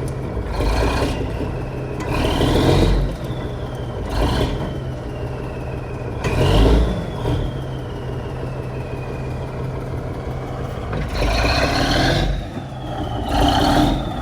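Truck engine running under load with about six revving surges as the stuck truck is driven to pull out of the holes; a whine falls in pitch after each rev. Its brakes are thought to be dragging and holding it back.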